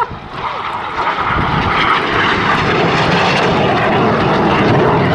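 Jet roar of BAE Hawk T1 jets with Adour turbofan engines making a low, fast pass; it builds over about the first second and then stays loud.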